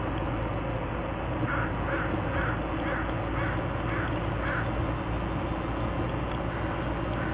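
A bird calling about eight times in a row, roughly two harsh calls a second, then once more near the end, over steady background noise.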